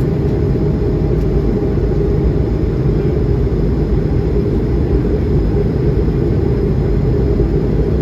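Steady, even rumble inside the cabin of an Airbus A220-100 after takeoff: its Pratt & Whitney PW1500G geared turbofans and airflow, heard from a window seat.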